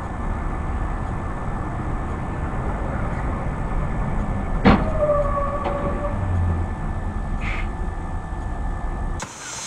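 Steady low rumble of a moving vehicle's engine and road noise. About halfway through there is one sharp knock, followed by a short tone that fades after about a second.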